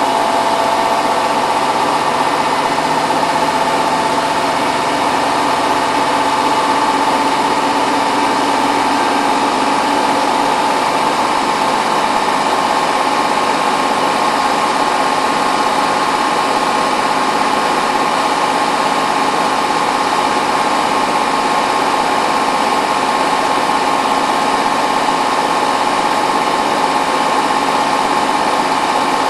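Hotpoint WT960 washing machine in its final high-speed spin: the motor and drum run with a steady whine over a dense whooshing rush, holding an even pitch.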